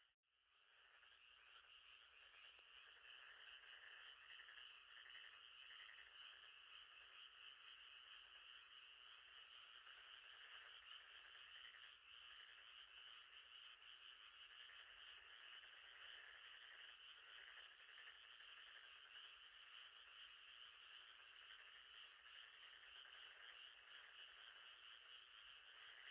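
Faint, steady night chorus of frogs, a continuous high-pitched trilling. It drops out for a moment at the very start and fades back in within about a second.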